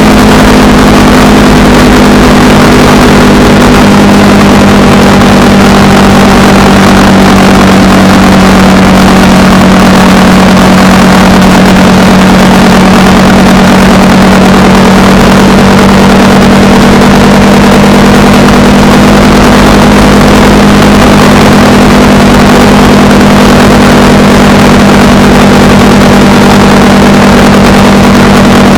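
Honda Rebel 300's single-cylinder engine running steadily on the road, under heavy wind rush on the microphone. The engine note drops slightly about four seconds in, then holds steady.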